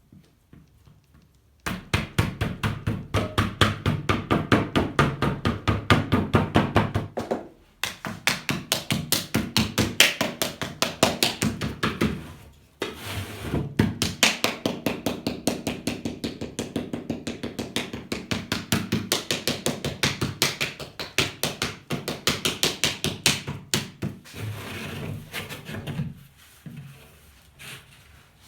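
A paddle slapping clay in rapid, even strokes, about five a second, beating a pot into shape against an anvil form in the paddle-and-anvil method. The strokes come in three long runs with brief pauses and thin out near the end.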